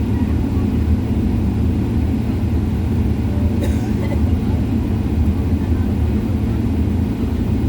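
Steady low drone of an airliner cabin, even in level throughout, with one brief click about three and a half seconds in.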